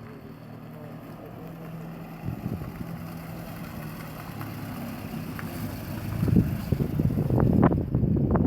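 Car engine running steadily, with wind gusting on the microphone and growing loud over the last couple of seconds.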